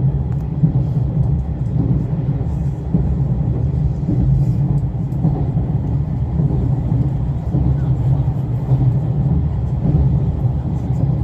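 Limited express train running at speed, a steady low rumble of wheels on rail and running gear.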